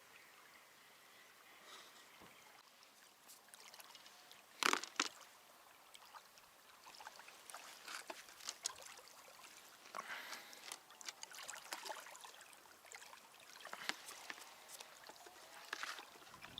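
Small irregular water splashes and dribbles at the river's edge, with two sharp knocks close together about five seconds in.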